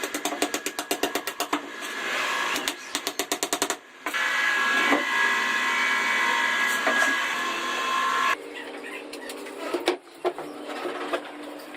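Electric woodworking power tool running: a rapid clatter at first, then a steady whine, dropping suddenly to a quieter hum about two-thirds of the way through.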